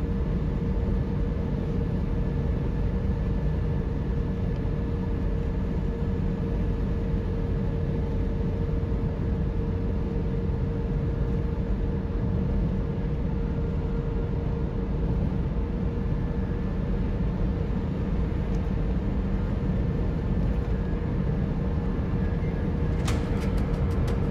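Car driving on a highway: steady road and engine noise with a constant hum. Near the end a regular ticking begins, a few ticks a second.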